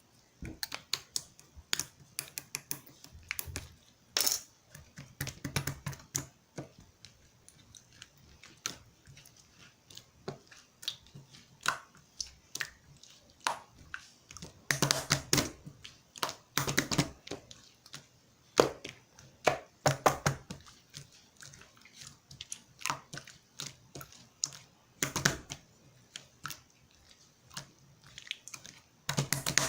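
Thin, runny mixed slime being squeezed and stretched by hand, making irregular sticky clicks and pops, some in quick clusters.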